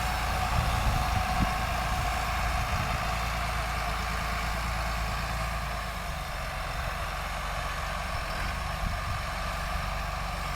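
John Deere tractor's diesel engine running steadily as it pulls a corn planter, easing slightly quieter after about six seconds.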